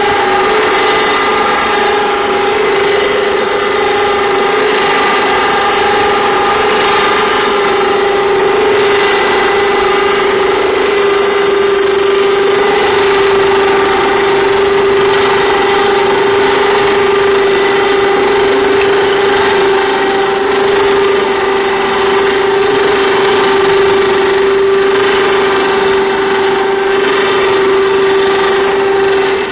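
Harbor Freight 2000 lb electric winch motor running under load with a steady whine, paying out cable to let the vehicle back down the hill, then cutting off abruptly near the end.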